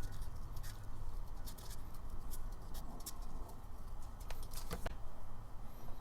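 Scattered light clicks and snips of small hand work on a tiny homemade gasket.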